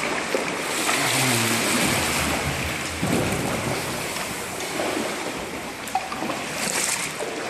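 Sea waves surging and washing inside a rock blowhole: a steady rush of water, with a few sharp knocks.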